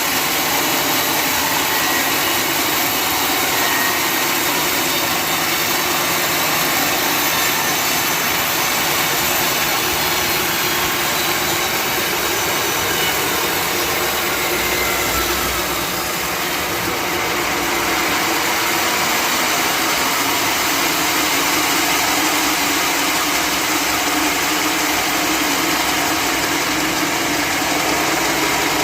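Sawmill running steadily while its saw cuts through a large log, a loud continuous mechanical noise that dips slightly about halfway through.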